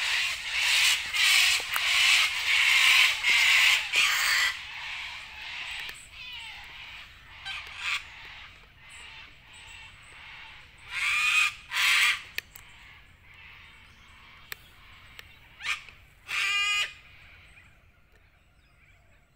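Wild birds in eucalyptus bush giving loud, harsh calls through the first four seconds, then further separate bursts of calling later on.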